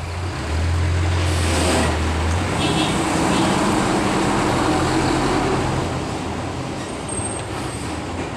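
Road traffic noise: a motor vehicle's low engine drone, strongest in the first couple of seconds, over steady road noise.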